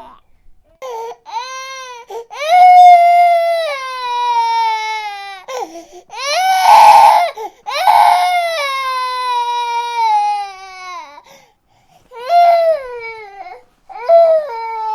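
Baby crying: a string of long, high wails, each sliding down in pitch, broken by short pauses for breath. One cry about seven seconds in is harsher and more strained than the rest.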